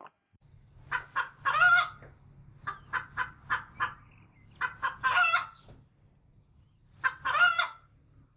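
Chicken calling in three bouts, each a few quick short clucks followed by one longer drawn-out call, over a steady low hum.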